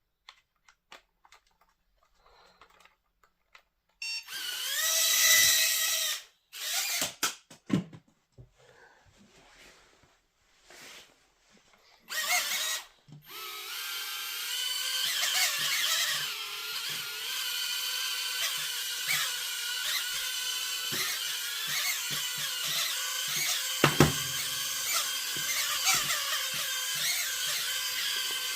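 Small drone's electric motors and propellers whining, the pitch bending up and down as they speed up and slow down. There is a short loud burst about four seconds in and a longer steady run from about twelve seconds on, with scattered clicks in between.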